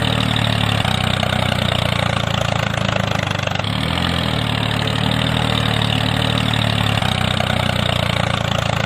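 Small engine idling steadily, with a brief wobble in pitch about four seconds in.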